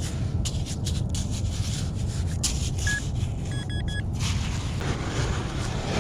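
Metal detector giving short single-pitch beeps: one about three seconds in, then three quick beeps just before four seconds. Underneath runs a steady low rumble with brief scraping sounds.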